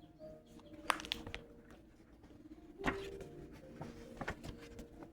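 Scattered soft clicks and rustles of cards or guidebook pages being handled, with two louder ticks about one and three seconds in, over faint background music.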